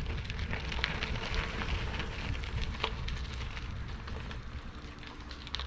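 Bicycle tyres rolling along a trail with a steady fine crackle, and wind rumble on the microphone; a sharper click near the end.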